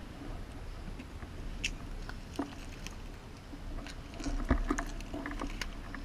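Rustling with scattered light clicks and knocks, bunched together in the second half and loudest about four and a half seconds in.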